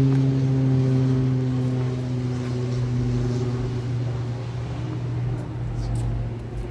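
A passing engine's steady hum, its pitch sinking slowly as it fades away near the end.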